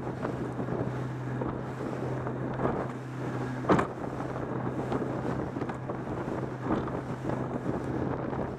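Wind buffeting the microphone in gusts on a boat in rough water. A steady low hum runs underneath, and there is one sharp knock a little under four seconds in.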